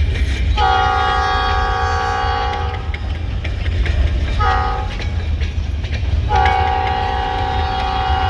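EMD GP38 locomotive's air horn sounding a chord in the grade-crossing pattern: a long blast, a short one about halfway through and another long blast starting near the end. A steady low train rumble runs beneath.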